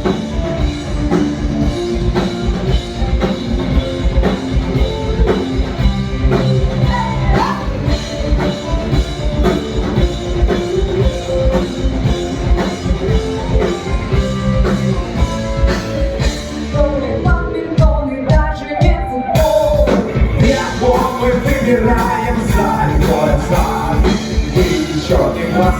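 Rock band playing the instrumental intro of a rock song, with a steady drum beat; the cymbals drop out briefly a little past halfway before the full band comes back in.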